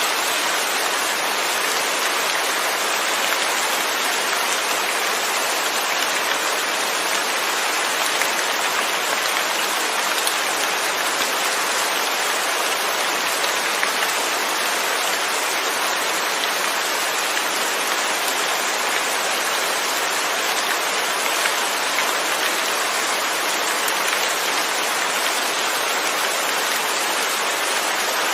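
Steady heavy rainfall with no thunder: an even hiss of rain with no breaks.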